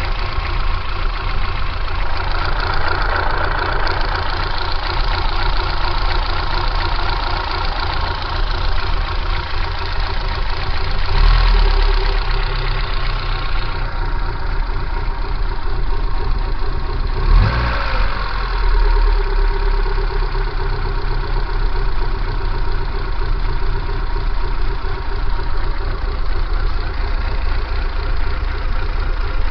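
Kia Pride car engine idling with abnormal jolting at idle, the fault the owner is recording. Steady running, with two brief louder bumps, about eleven and seventeen seconds in.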